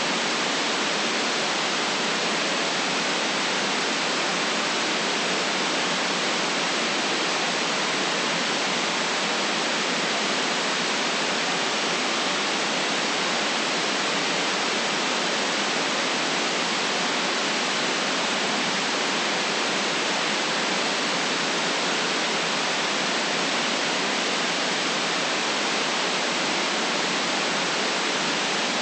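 Steady white noise: an even, unchanging hiss with no deep bass.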